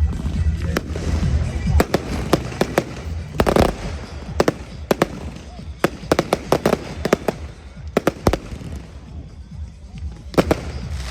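Fireworks going off: a rapid, uneven series of sharp bangs and crackles, heaviest about three and a half seconds in and again near the end, over music with a heavy bass that fades back after the first two seconds.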